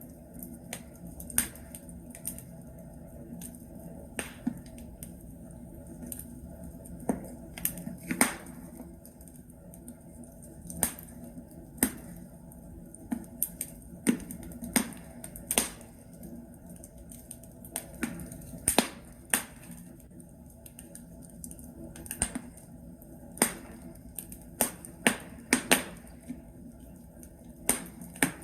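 Burning logs crackling in a fireplace: irregular sharp pops and snaps, often one or two a second and sometimes in quick clusters, over a steady low background noise.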